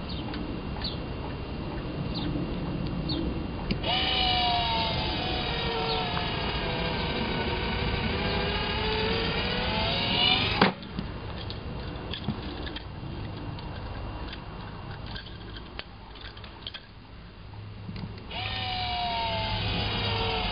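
GoDogGo automatic ball launcher's electric motor whirring through a throwing cycle, its pitch sagging and then climbing. It ends in one sharp loud thump as the ball is thrown, about halfway through. A few small clicks come before it starts, and the motor whirs up again for the next cycle near the end.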